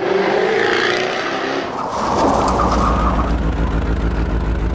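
Car engine revving hard as a produced sound effect under a logo intro. The pitch climbs in the first second, then settles into a deep steady rumble and falls away near the end.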